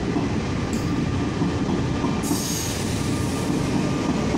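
Taiwan Railway Tze-Chiang express passenger carriages rolling past at low speed as the train leaves the station: a steady rumble of wheels on rail. A high hiss with a thin squeal joins about two seconds in.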